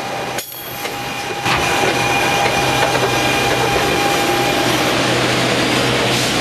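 New Jersey Transit Arrow III electric multiple-unit cars pulling in along the platform: a steady rush of wheels on rail, with a low hum and a faint high whine over it. It grows louder about a second and a half in.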